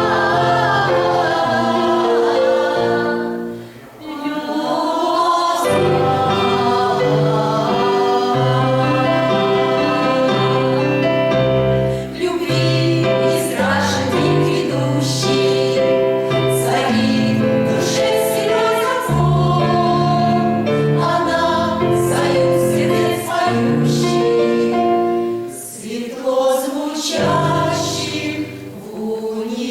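Women's choir singing a song in several voices over instrumental accompaniment, with a short break between phrases about four seconds in.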